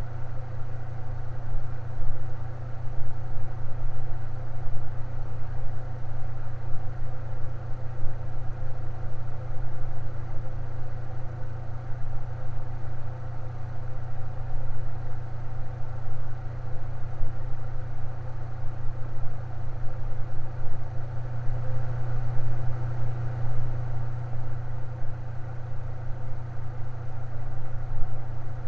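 Electric fan running steadily: a low, even hum with a fainter whir above it. The hum swells a little about three quarters of the way through.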